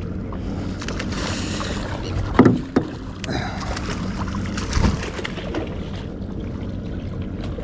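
Steady low hum and wind-and-water noise aboard a small fishing boat, with two short louder knocks about two and a half and five seconds in.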